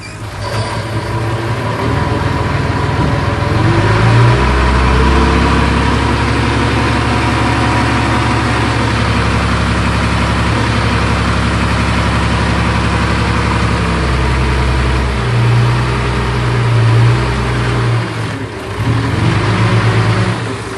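Heavy earthmoving machine's diesel engine revving up over the first few seconds, then running steadily at high revs, with its speed rising and falling near the end.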